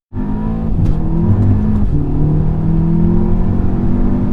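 Remapped Audi S3 8V's turbocharged 2.0-litre four-cylinder accelerating hard. Its note rises in pitch, drops once about two seconds in as the DSG gearbox shifts up, and then climbs again.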